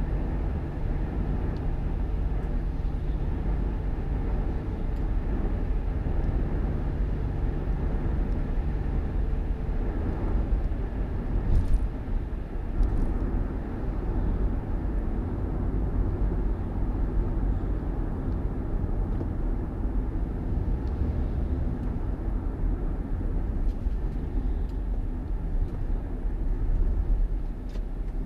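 A motor vehicle on the move: a steady, loud low rumble of engine and road noise.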